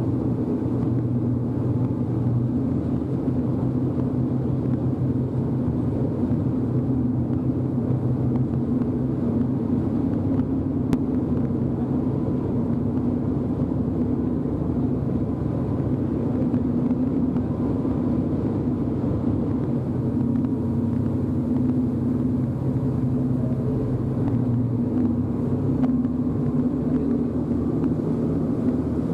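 Passenger ferry's engine running steadily underway, a low droning hum with a slight change in pitch about two-thirds of the way through.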